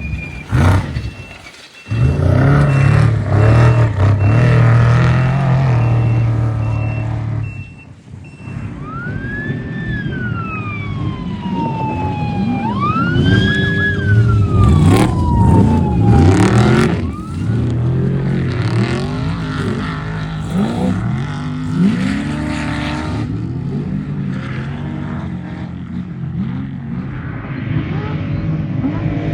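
Off-road race truck engines revving hard as they pass, pitch swinging up and down with throttle. Near the middle, a siren-like wail rises and falls twice.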